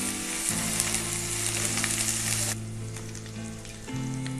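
Onion with ginger and garlic paste sizzling in hot oil in a kadai. The sizzle is loud at first and drops off suddenly about two and a half seconds in.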